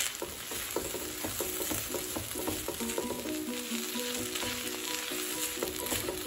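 Basmati rice and chopped vegetables sizzling in a hot nonstick pan as a spatula stirs and scrapes through them, with many small clicks of the spatula against the pan. Light background music plays along.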